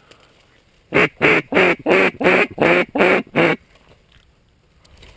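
Mallard duck call blown in a quick series of eight evenly spaced, loud quacks over about two and a half seconds, calling to passing flocks of mallards.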